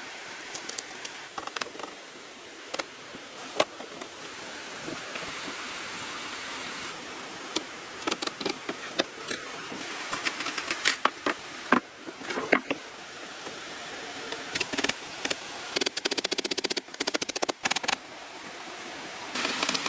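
Scattered sharp knocks and clicks over a steady hiss, with runs of rapid, evenly spaced clicking about three-quarters of the way in and again at the end.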